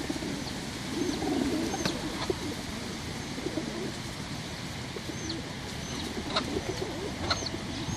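Birds calling: short high chirps scattered throughout over softer, lower cooing-like calls.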